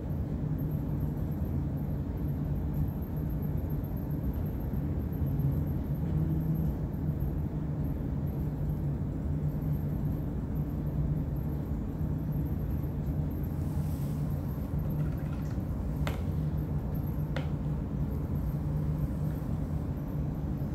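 Steady low hum and rumble of background noise, with two faint clicks near the end.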